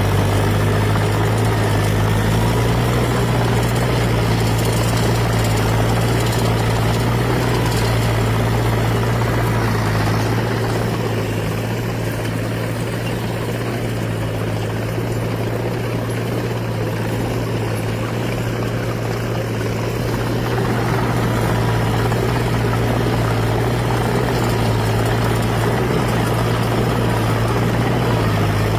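Fiat 555C tractor's diesel engine running steadily under load, driving a PTO rotary tiller working the soil. It dips a little in loudness for about ten seconds in the middle, then comes back up.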